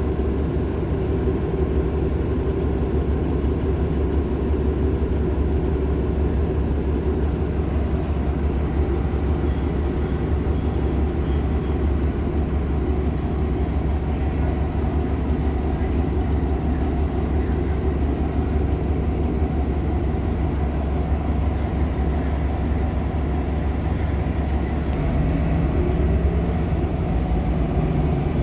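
Nova LFSA hybrid articulated bus running, its Cummins ISL9 inline-six diesel giving a steady drone. About 25 seconds in the engine note shifts and a rising tone comes in near the end.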